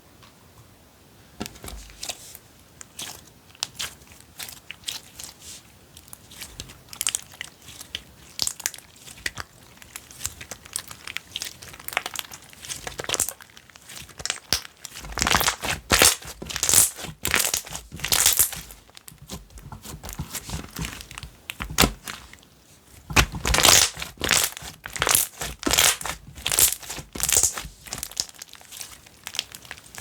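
Hand-played slime being squished, stretched and pressed, giving dense crackling and popping clicks. The crackling grows busiest and loudest in two spells, about halfway through and again near the end.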